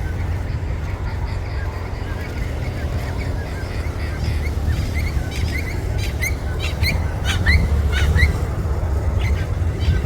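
Birds chirping, short quick calls repeated many times and busiest in the second half, over a steady low rumble.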